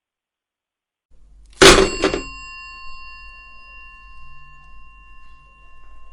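A telephone handset clattering down onto an old desk phone, jolting its bell into a single ring that keeps sounding for several seconds over a faint low hum.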